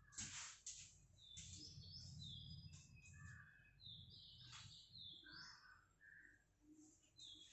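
Near silence, with faint bird chirps now and then: short, high notes, some sliding down in pitch, over a low hum.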